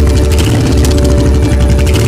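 Honda Shadow VT1100's V-twin engine running steadily, a low, rapid, even pulsing.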